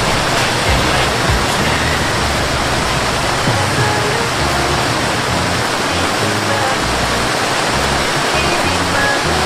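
Steady loud rushing noise with background music underneath, its bass notes changing every half second or so.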